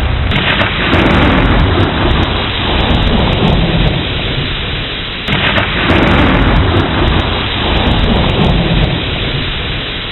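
Thunderstorm: steady heavy rain with rolling thunder that swells twice, about a second in and again about halfway through.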